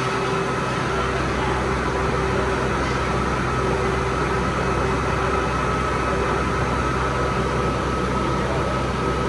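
Workshop machine running steadily: a constant motor hum with a thin whine over it.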